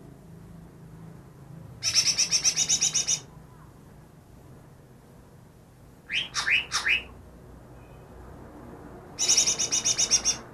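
Cucak ijo (green leafbird) calling: two fast trills of about a dozen sharp, high notes each, each about a second long, about two seconds in and again near the end. Between them comes a short burst of four down-slurred notes.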